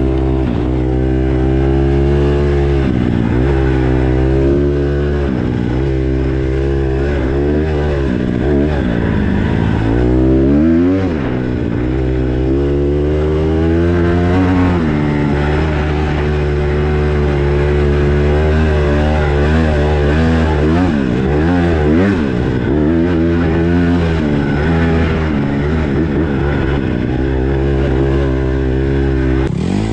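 Single-cylinder four-stroke dirt bike engine being ridden hard on a trail, its pitch rising and falling over and over as the throttle opens and closes and the gears change.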